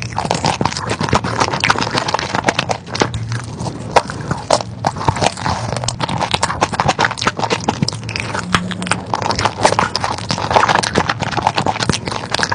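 Close-miked eating of crispy fried chicken: dense, irregular crunching and chewing, with many sharp, quick crackles.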